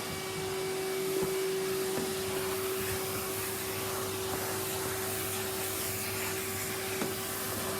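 Henry cylinder vacuum cleaner running steadily with an even whine, its nozzle sucking up dust, with a few faint knocks of the tool against surfaces.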